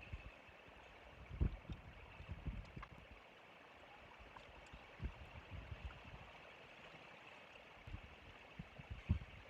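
Faint wind on an outdoor microphone: a low steady hiss broken by short low rumbles about a second and a half in, around the middle, and again near the end.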